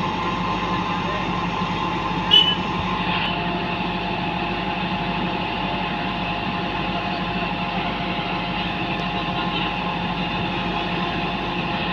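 Heavy construction machine's diesel engine running steadily at a constant speed, with one short sharp sound about two and a half seconds in.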